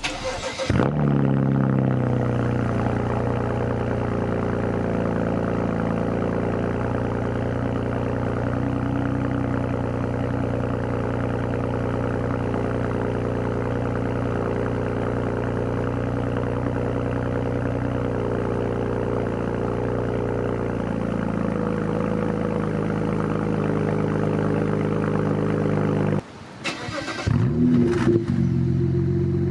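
2009 BMW 335i's twin-turbo N54 straight-six, straight-piped with an X-pipe in place of the resonator and the muffler deleted, running with a steady, loud exhaust note after a short rise in pitch at the start. About 26 seconds in, the sound breaks off briefly and comes back with another short rise before settling steady again.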